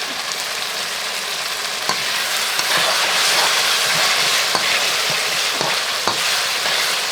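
Food frying in hot oil in a pan, sizzling steadily and growing a little louder about two seconds in, with a few knocks of a stirring spoon against the pan.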